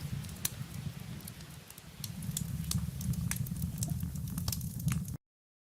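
Crackling fire: a steady low rumble with scattered sharp pops and snaps, cutting off suddenly near the end.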